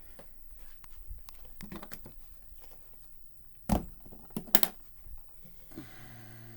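Light clicks and knocks of piano parts being handled, with a few sharp knocks just past the middle.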